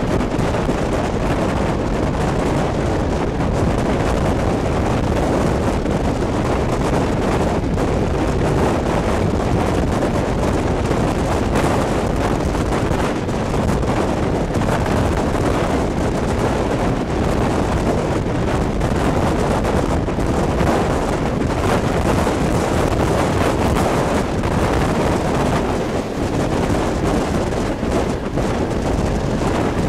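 Wind buffeting a microphone held out of a moving train's window, over the steady rumble of the train running along the track.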